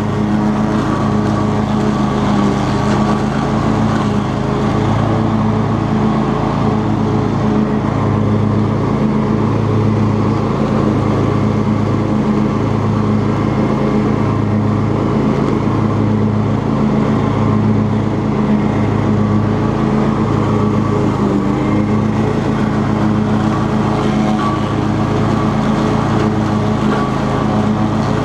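Cub Cadet XT2 lawn tractor engine running steadily at a constant speed, as it does while mowing.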